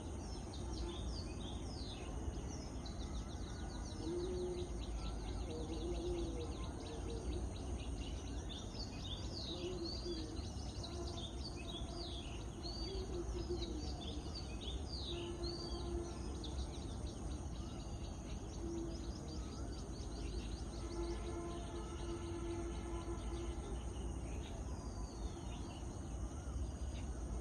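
Many small birds chirping and twittering in quick, high notes, busiest over the first half and thinning out later, with a few lower held calls. A steady low rumble runs underneath.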